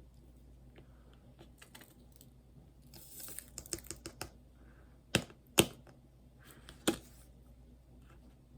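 Light clicks and taps from handling a diamond painting canvas, with a brief rustle about three seconds in and a few sharper clicks around the middle.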